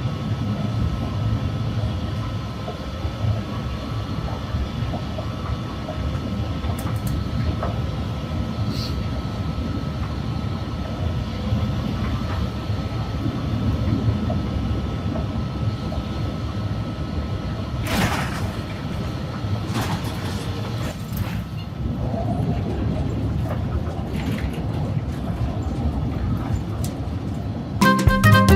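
Airbus A380 landing, heard from inside the cabin: a steady low rumble throughout, with a sharp knock about eighteen seconds in.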